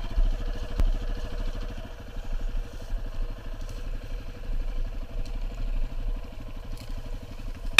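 Single-cylinder dual-sport motorcycle engine running steadily, with a sharp click about a second in.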